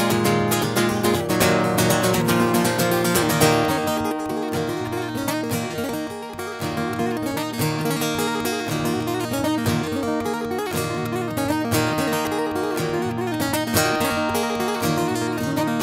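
Acoustic guitar being strummed as an instrumental passage, with busy strumming that thins out about four seconds in.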